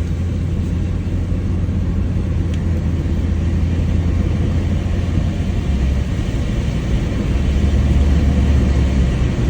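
Mitsubishi Lancer driving: a steady low rumble of engine and road noise that grows a little louder near the end.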